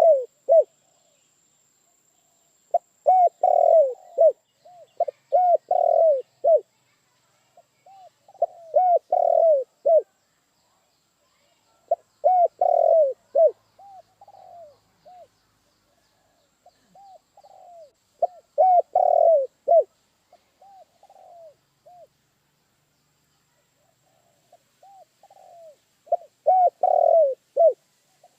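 Spotted dove cooing in repeated phrases, each a quick run of short coos lasting a second or two, coming every few seconds. Fainter coos of the same kind are heard between some of the phrases.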